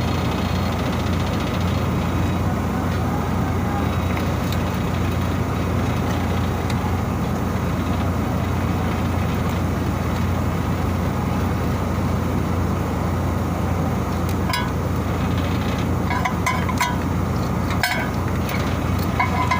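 Steady low machinery hum and drone, with a few short clicks and knocks in the last few seconds.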